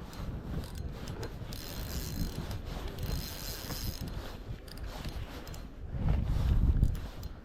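Spinning reel being cranked to retrieve line, its gears whirring with fine clicking; it gets louder about six seconds in.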